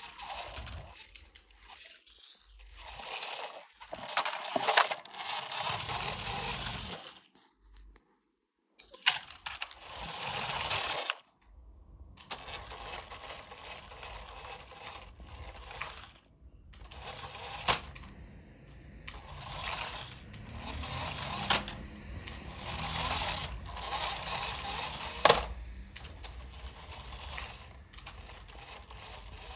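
Plastic toy trucks being rolled and handled: stretches of wheel rattle broken by sharp clicks and knocks.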